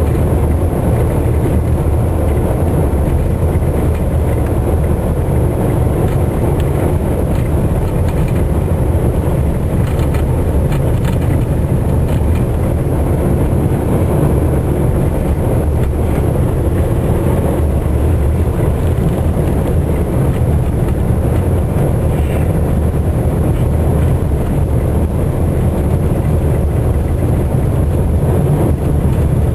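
A car driving, with a steady low rumble of engine and road noise that does not change.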